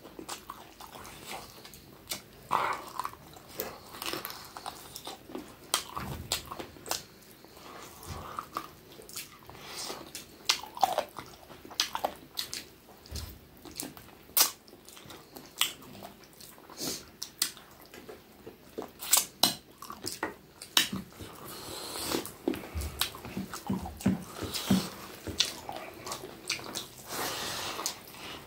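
Close-miked eating sounds: biting, chewing and lip-smacking on chicken pieces eaten off the bone by hand, with many short wet clicks of the mouth throughout.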